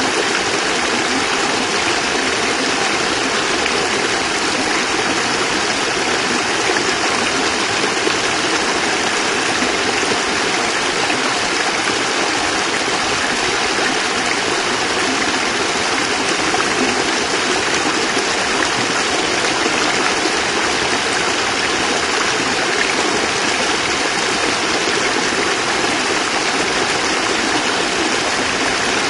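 Small cascade of water pouring and splashing steadily, an even rushing sound.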